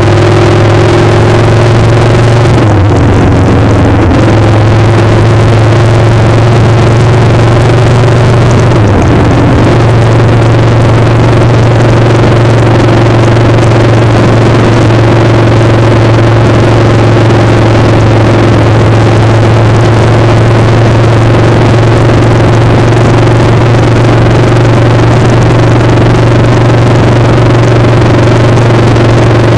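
Motorcycle engine running at a steady pitch under a heavy rush of wind noise. The engine note dips briefly twice, about three and nine seconds in.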